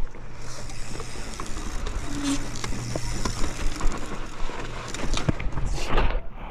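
Mountain bike rolling over rough ground, with rattling and many scattered knocks and clicks from the bike.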